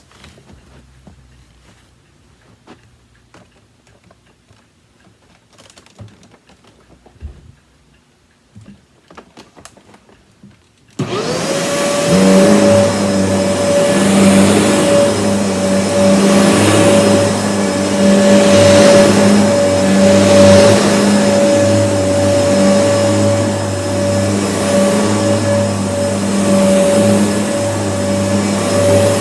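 Kenmore upright vacuum cleaner switched on after a few quiet clicks of handling: the motor spins up quickly to a steady high whine, then runs loudly and evenly.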